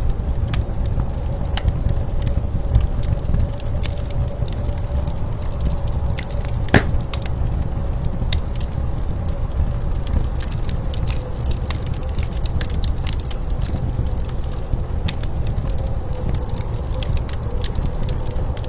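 Wood fire crackling, with sharp snaps scattered throughout and one louder pop about seven seconds in, over a steady low rumble of blizzard wind.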